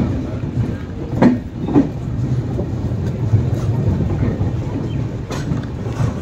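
Passenger train coach running along a station platform, heard from its open doorway: a steady low rumble of the wheels and running gear, with two sharp knocks a little over a second in.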